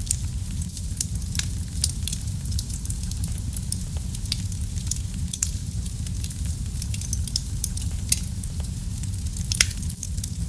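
Wood fire in a fireplace crackling: a steady low rumble of flames under constant irregular sharp crackles, with a few louder pops, about two seconds in, eight seconds in and near the end.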